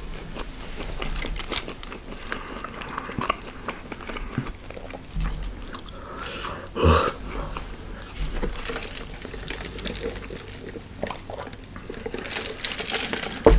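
A person eating fast food close to the microphone: bites and wet chewing with short crackling clicks, and one louder noise about halfway through.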